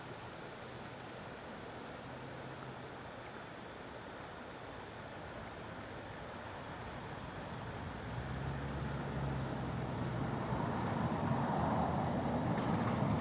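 Insects trilling steadily in a high, unbroken band over outdoor hiss. About eight seconds in, a low engine hum comes in and grows louder toward the end.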